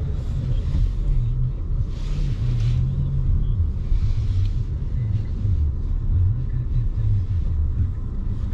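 Car driving along a road: a steady low rumble of engine and tyres, with brief hissy swells about two and four seconds in.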